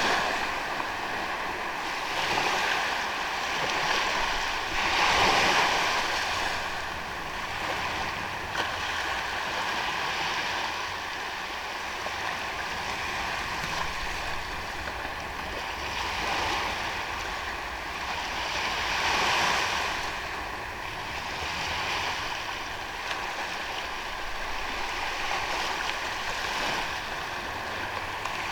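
Sea waves washing onto a sandy beach, a steady surf wash that swells and ebbs every few seconds, with some wind noise on the microphone.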